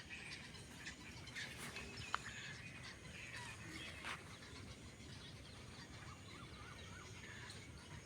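Birds chirping continuously around a lake, a chorus of many short overlapping calls, faint.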